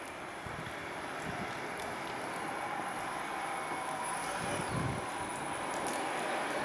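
Freight train's Koki container wagons rolling past, a steady rumble of steel wheels on rail with a faint whine, and a couple of low thumps.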